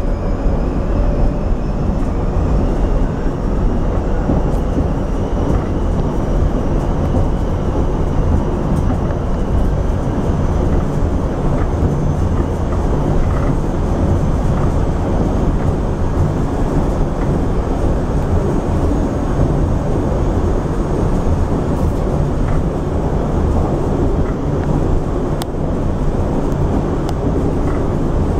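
Rotem Silverliner V electric commuter railcar running at speed, heard from inside the car: a steady low rumble of wheels on rail, with a faint high whine that rises slowly in pitch.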